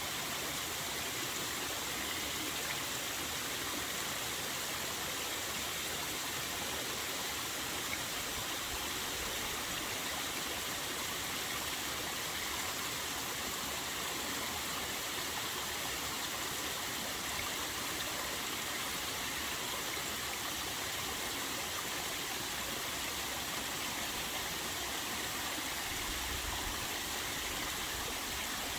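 A small waterfall running with a fairly low flow, a steady, even rush of falling and splashing water.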